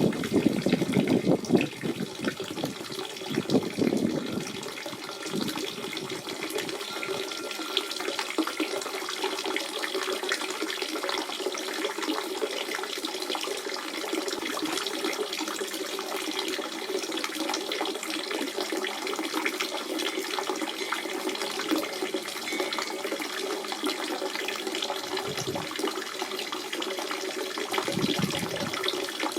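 Natural spring water running in a steady burbling flow, with stronger gurgles and splashes in the first few seconds and again near the end.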